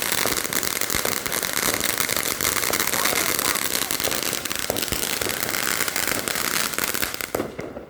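A firework crackling: a dense, fast run of tiny pops over a hiss, which cuts off suddenly near the end.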